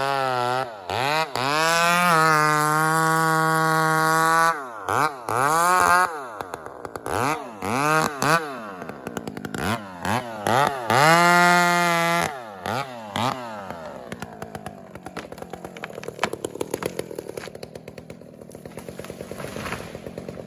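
Chainsaw revving up and dropping back again and again during felling cuts, several times falling briefly to near idle. For the last six seconds or so it runs much quieter and steadier.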